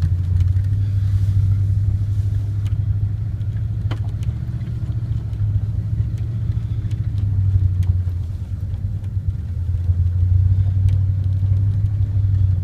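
1999 Dodge Ram 1500's Magnum 5.2-litre V8 pulling the truck in second gear in four-wheel drive: a steady low engine drone that swells a little twice, with a few faint clicks over it.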